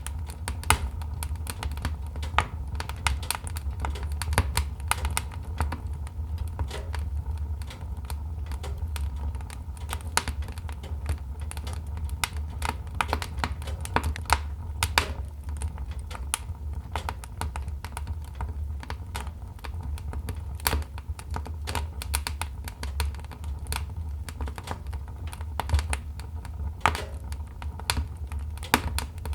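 Wood fire crackling: irregular sharp pops and snaps, some louder than others, over a steady low rumble from the burning fire.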